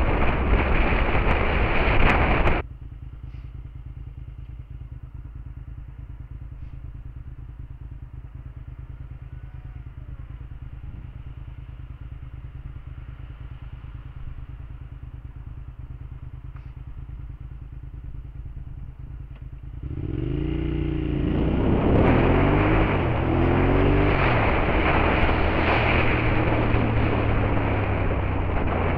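Suzuki SV650S V-twin with a Beowulf aftermarket exhaust. It is riding under wind noise, then drops to a steady idle about three seconds in. About twenty seconds in it revs and pulls away, its pitch climbing and dropping through the gears, and loud wind noise returns.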